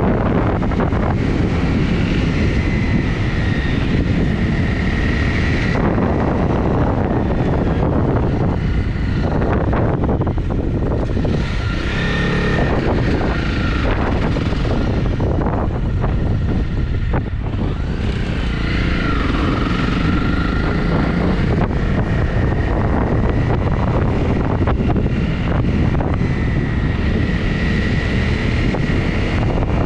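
Honda CRF250's single-cylinder four-stroke engine running steadily under way, mixed with heavy wind rush on the microphone; the engine note shifts in pitch a couple of times.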